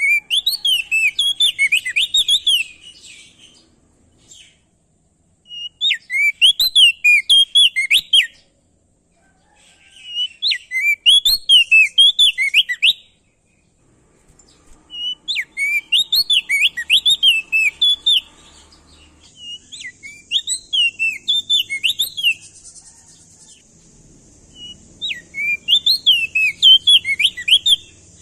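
A prenjak daun (opior jambul) songbird singing loud bursts of quick, chirpy, up-and-down notes, each burst lasting two to three seconds and repeated about six times with short pauses between. A steady high hiss joins in about two-thirds of the way through.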